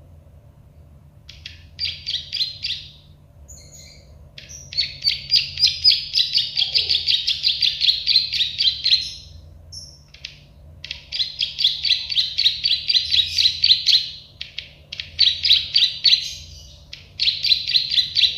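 Prenjak sawah (plain prinia) singing in five phrases of fast, evenly repeated chirping notes, several a second. The longest phrase runs about four and a half seconds.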